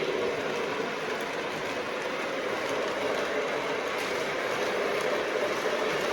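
Lionel Legacy Russian Decapod O-gauge model steam locomotive running on the layout's track: a steady rolling rumble of wheels and motor with a few faint ticks.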